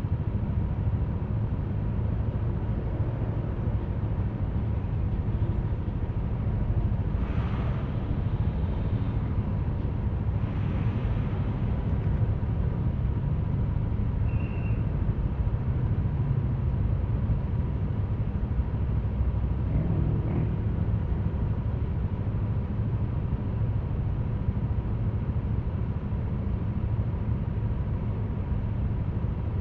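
Yamaha Aerox V3 scooter's 155 cc single-cylinder engine running steadily under way, with a continuous low rumble of engine and road noise. A short high beep comes about halfway through.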